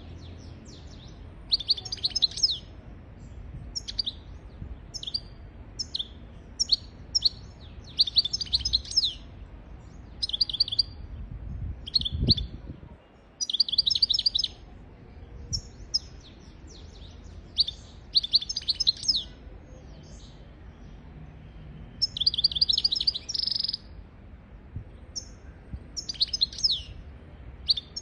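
European goldfinch singing: short phrases of rapid, high twittering notes, a second or so each, repeated with brief pauses between.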